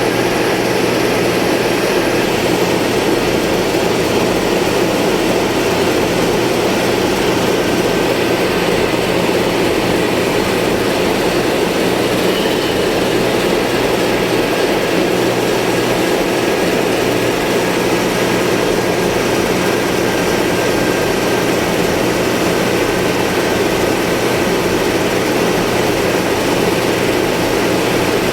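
Marine diesel engine running steadily, a constant loud drone with a low hum.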